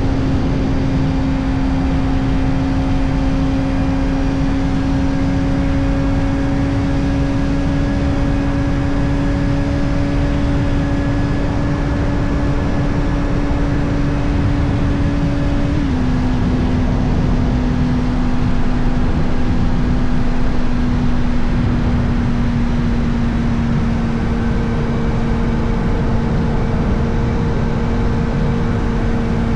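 Kawasaki Ninja ZX-4RR's inline-four engine through an Arrow titanium exhaust with the dB killer fitted, running at a steady high-revving cruise whose note sinks slowly. About 16 s in the pitch steps down slightly. Dense wind rush runs underneath.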